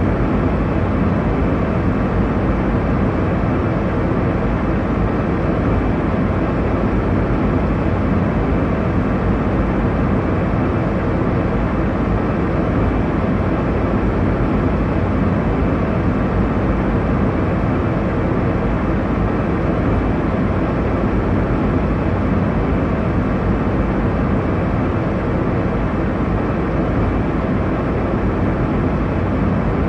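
Airliner cabin noise in flight: a steady, unbroken low rush of engine and airflow noise, strongest in the low and middle range.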